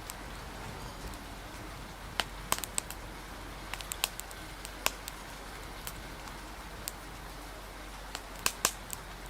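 Wood fire crackling, with sharp irregular pops in clusters (a few around two to three seconds in, again near four to five seconds, and a pair near the end), over a steady hiss of rain and wind.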